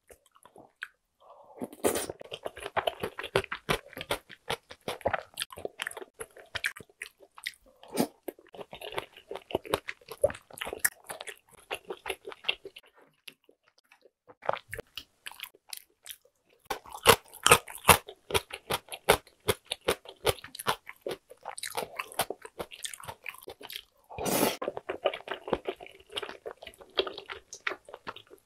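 Close-miked chewing and wet mouth sounds of someone eating tteokbokki rice cakes in spicy sauce, with irregular smacks and clicks, easing off briefly about halfway through.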